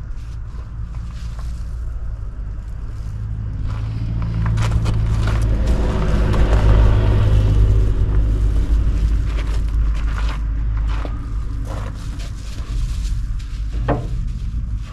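A motor vehicle passing by: its engine and tyre rumble grow louder to a peak about halfway through, then fade away, over a steady low wind-like rumble and a few scattered clicks.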